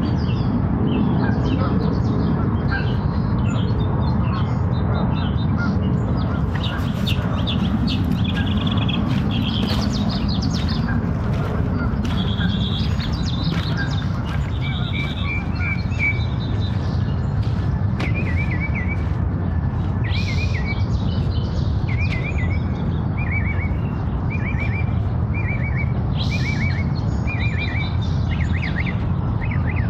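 Small birds chirping and calling. In the second half one bird repeats a short call about once a second. Under it all runs a steady low rumble.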